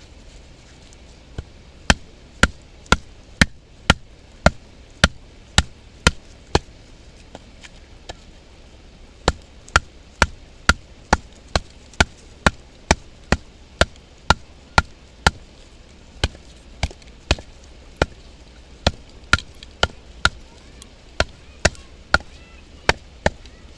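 Batoning firewood: a wooden baton striking the spine of a Mora knife driven into a log, sharp wooden knocks about two a second. A run of about ten strikes, a pause of a few seconds, then a longer steady run of strikes.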